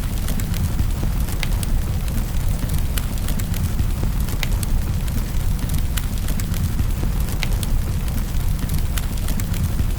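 Wood fire crackling in a fireplace, with scattered sharp pops over a steady low rumble and hiss of rain.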